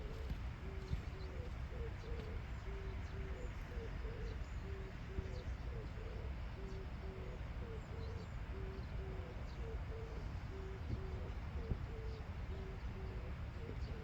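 A bird's low hooting two-note call, a higher note then a lower one, repeated steadily over and over.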